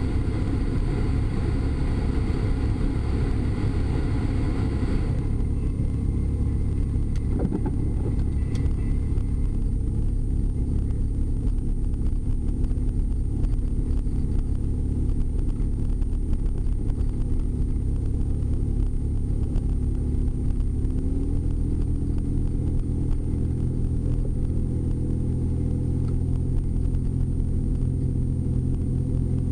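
A car driving, heard from inside: a steady low engine hum and road noise. A hiss in the upper range cuts off about five seconds in, and the engine note steps up in pitch about two-thirds of the way through.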